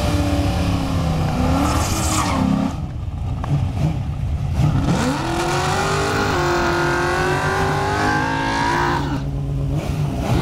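Drag-racing engines at the starting line, with a Fox-body Mustang's V8 close by. About five seconds in, the revs climb and are held high for around four seconds, then drop away.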